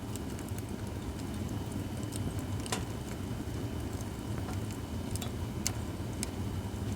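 Acacia firewood burning in a fire pit, crackling with irregular sharp pops over a steady low rumble. The loudest pops come about a third of the way in and again past the middle.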